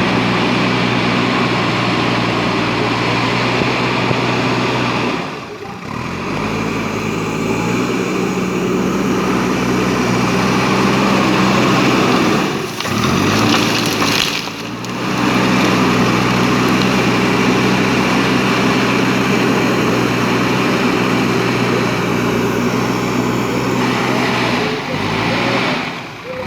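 JCB 3DX backhoe loader's diesel engine running steadily under work. The sound drops away briefly a few times, and the engine's pitch shifts after each drop.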